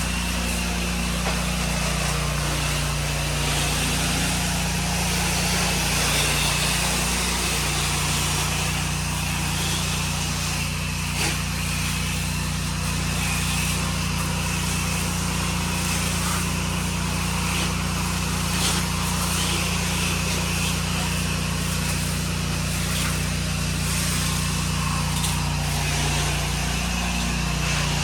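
Gas-engine pressure washer, an 8-gallon-per-minute unit, running steadily with a constant hiss over the engine drone.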